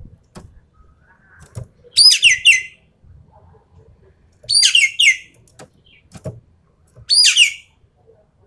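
Ekek keling bird giving three loud, rapid-fire call bursts about two and a half seconds apart, each under a second long and falling in pitch. A few faint knocks come between the calls.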